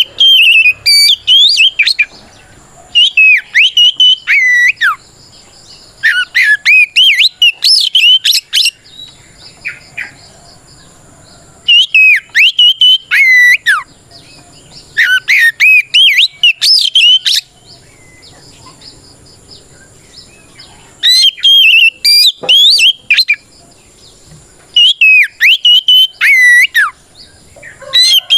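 Oriental magpie-robin (kacer) singing loudly in the full-throated ngeplong style, its challenge song to a rival. It gives bursts of fast, sweeping whistled phrases, each about two seconds long, with short pauses between them.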